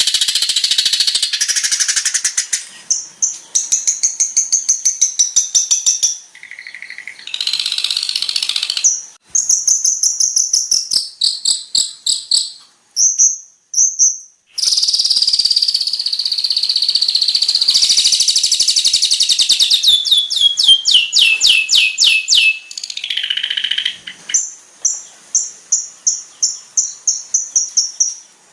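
Long-tailed shrike (cendet) singing a long, varied song. It alternates buzzy chattering stretches with fast runs of repeated chirps, has a couple of short whistles in the middle, a quick falling series of notes about three quarters through, and evenly spaced repeated chirps near the end.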